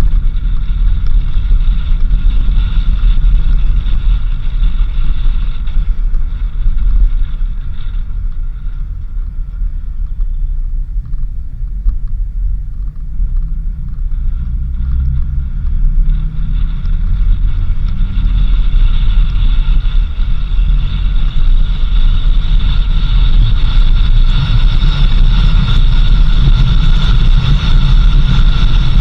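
Car driving: a steady engine and road rumble that dips a little midway and grows louder over the last third.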